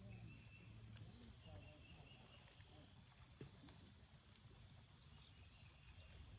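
Faint insects chirping: a quick run of very high ticks starting about a second in and lasting about two seconds, a few more later, over a steady high hiss.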